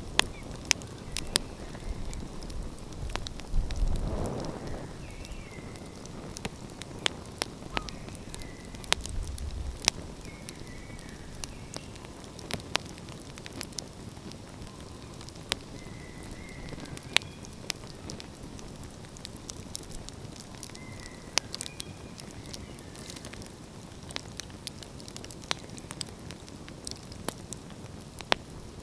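Open wood fire crackling, with frequent sharp pops and snaps over a steady hiss. A low rumble swells a few times in the first ten seconds.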